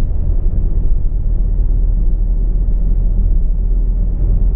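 Tata Altroz diesel car driving, heard from inside the cabin: a steady low rumble of engine and road noise.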